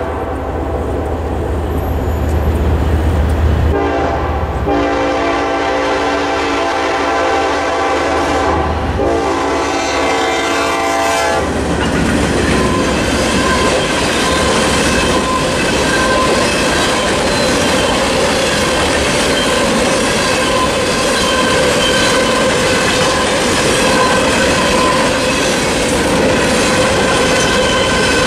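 Norfolk Southern diesel locomotive horn sounding in three long blasts over the deep rumble of the engines, stopping about 11 seconds in. Then the ballast hopper cars roll past with a steady clatter of wheels over the rails.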